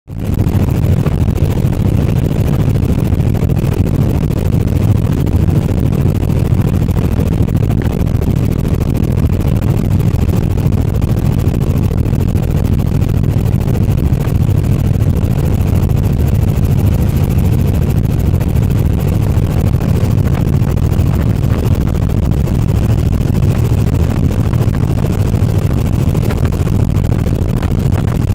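Helicopter running steadily: a loud, unchanging low rumble.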